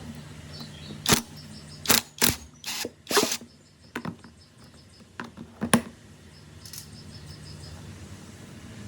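Irregular sharp knocks and clatters, about seven in the first six seconds, over a steady low hum.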